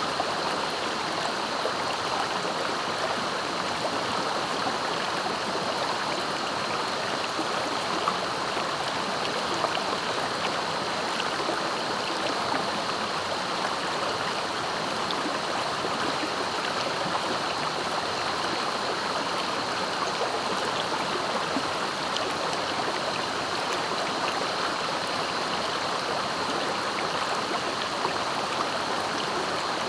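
Clear, swift-flowing river rushing steadily, with a faint steady high tone above the water noise.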